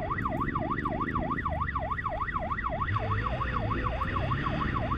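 Police siren in a fast yelp, its pitch sweeping up and down about four times a second, over vehicle engine noise.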